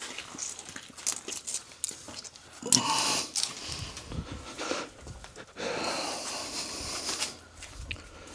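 Knocks, scraping and rustling of parts being handled and set down, with one loud knock about three seconds in and a longer stretch of scraping later.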